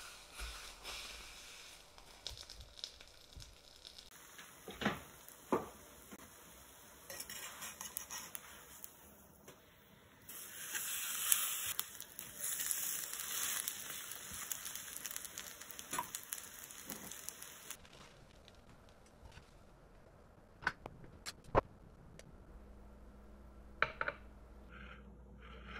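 Battered napa cabbage leaf frying in oil in a pan, sizzling loudest in the middle stretch, with several sharp clicks of utensils against the pan and dishes.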